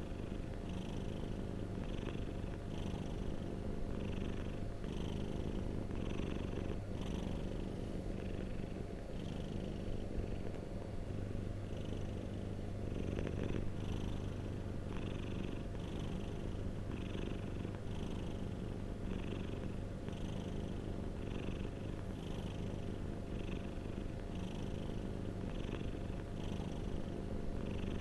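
Domestic cat purring steadily close to the microphone: a continuous low rumble that swells and eases with each breath, a little more than once a second.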